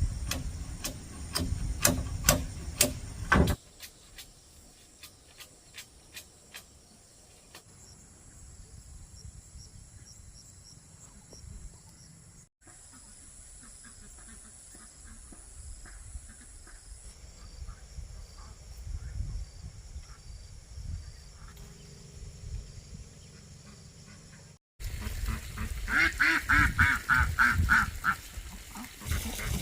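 Domestic ducks quacking in a loud, rapid run of calls near the end. In the first few seconds there is a series of sharp knocks.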